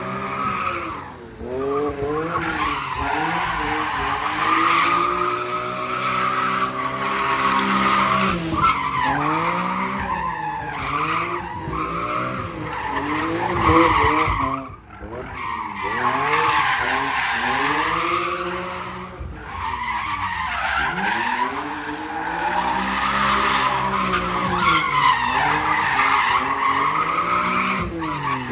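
A drift car's engine revving hard and easing off again and again, its pitch climbing and falling every few seconds, over continuous tyre squeal and skidding. There is a brief lull about halfway through.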